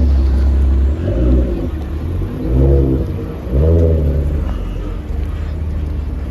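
Car engine revving in three short blips over a loud, rumbling idle, settling back to idle after about four and a half seconds.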